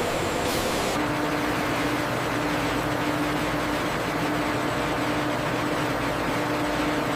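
Steady machinery noise with a faint, wavering hum; the sound shifts about a second in.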